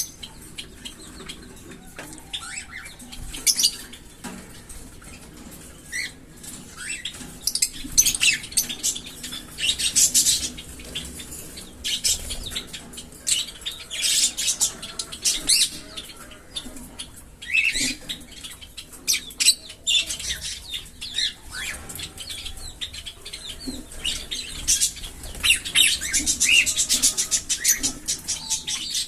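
Small pet parrots chattering and chirping in repeated bursts of high, scratchy calls, with short pauses between the bursts.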